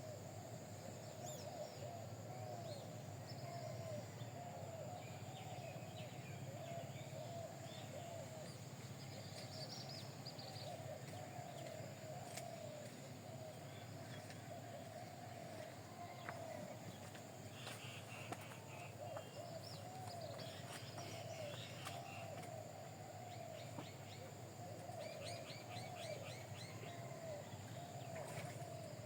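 A group of birds calling without a break: short, wavering mid-pitched calls repeat all through, with scattered bursts of higher, quick chirps.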